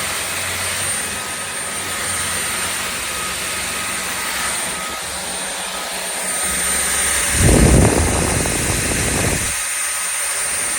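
Shark Clean & Empty cordless stick vacuum running steadily with a thin high whine over its airflow noise. About three-quarters of the way through, a louder low rumble comes in for about two seconds.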